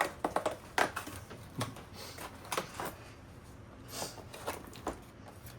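Cheese advent calendar packaging being handled: irregular crinkles and clicks as a cardboard compartment is opened and the cheese portion inside is taken out.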